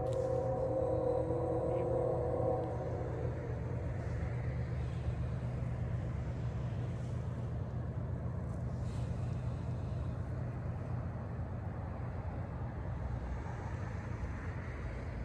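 Diesel freight locomotive horn sounding a multi-note chord for the first two to three seconds, then a steady low rumble of the train running by.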